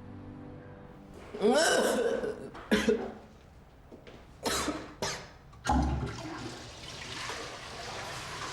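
A woman retching and dry heaving over a toilet, four or five separate heaves with nothing coming up. About halfway through, a toilet flushes with a long rush of water.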